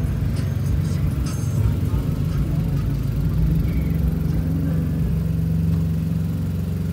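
Volkswagen up! 1.0 TSI three-cylinder engine idling, a steady low rumble.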